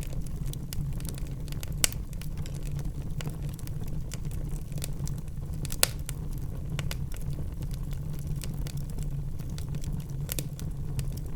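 Wood fire burning in a fireplace: a steady low rumble with scattered sharp crackles and pops, the two loudest pops about two and six seconds in.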